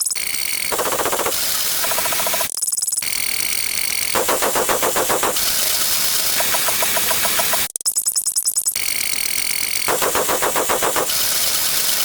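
A rapid run of loud, harsh, distorted electronic sound effects that switch abruptly every second or so, many of them fast buzzing pulses, with a brief drop-out about eight seconds in.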